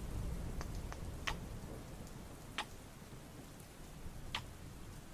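Steady rain with a low rumble that is a little louder in the first second or so. Five sharp ticks stand out over it, three in the first second and a half, then one about two and a half seconds in and one near four and a half seconds.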